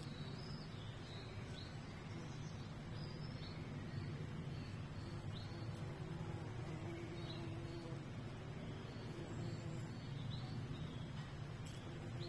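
Small birds chirping, short high chirps every second or so, over a steady low background rumble.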